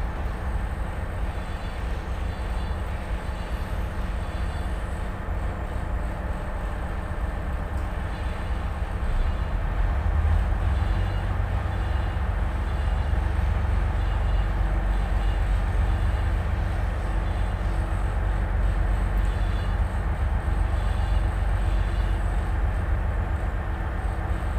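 Tugboat's diesel engine running with a steady low rumble, growing louder about ten seconds in as the boat manoeuvres alongside a barge.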